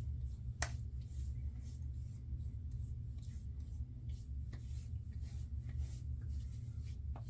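Faint rubbing and light taps of hands on skin, likely spreading aftershave splash over the face, over a steady low hum.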